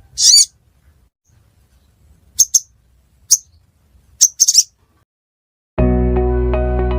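Short, sharp, high-pitched chirps of a small bird known locally as the sogon (sogok ontong). There is one call, then quick doubled or clustered calls about two and a half, three and a half and four and a half seconds in. Background music with sustained tones starts near the end.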